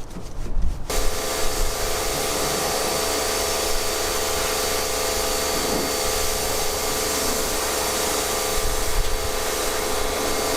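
A motor-driven machine switched on about a second in, running at a steady, even pitch, then cutting off abruptly at the end.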